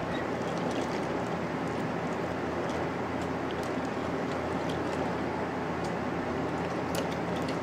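CN freight train rolling past: a steady rumble of wheels on the rails, with frequent short sharp clicks and clanks.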